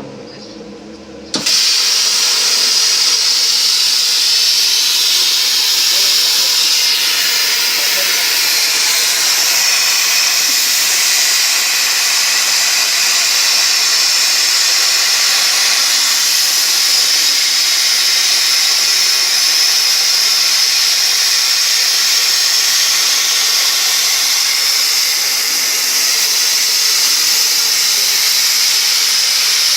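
100-amp air plasma cutter on a CNC table cutting: a loud, steady hiss of the arc and air jet that starts suddenly about a second and a half in.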